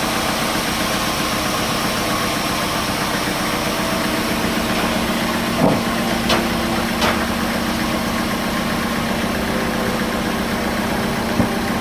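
Sawmill machinery running steadily with an even hum. Three short knocks come about halfway through, and one more near the end.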